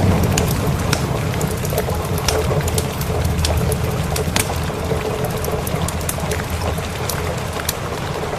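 A low rumble of thunder slowly dying away under steady rain, with sharp pops and crackles of a wood fire scattered throughout.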